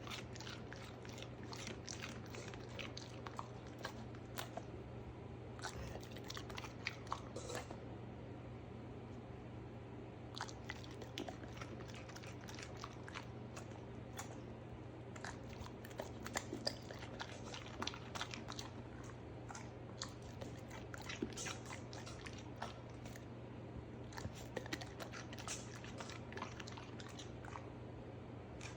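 Close-up crunchy biting and chewing of raw vegetables: many irregular crisp crunches over a steady low hum.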